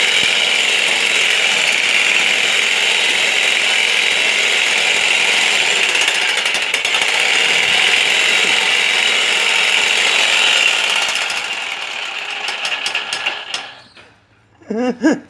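Electric demolition hammer running steadily as it breaks into masonry, then winding down and stopping between about eleven and fourteen seconds in.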